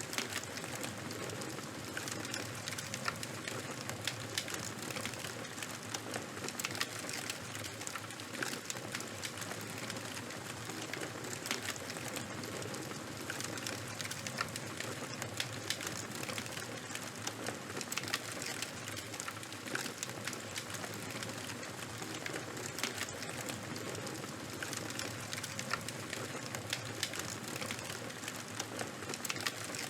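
Charcoal and bonfire fire burning, crackling steadily with frequent small irregular pops over a soft hiss.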